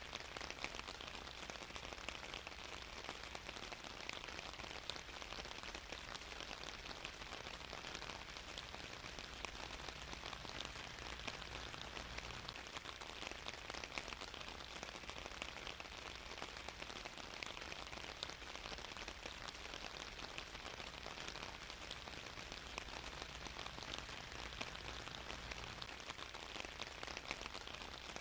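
Steady rainfall: an even hiss with dense, fine patter of drops on a surface.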